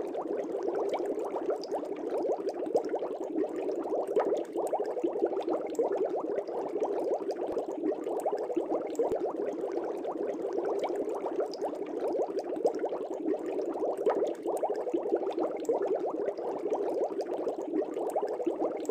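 Aquarium air bubbles bubbling steadily in a fish tank: a continuous dense stream of small bubbles with fine rapid pops and crackles.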